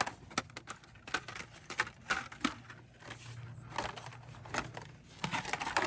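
Hot Wheels blister-pack cards being handled and flipped on a store peg: plastic and cardboard giving many small irregular clicks and crinkles, over a steady low hum.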